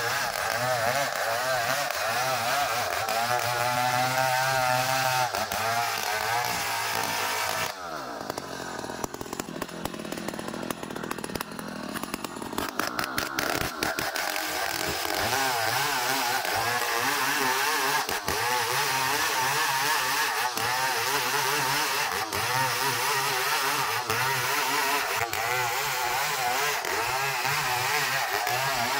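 Power saw working through ulin (ironwood) timber, its motor running hard and steady. About eight seconds in, its note slides down and goes quieter for roughly five seconds, then climbs back up and runs steadily again.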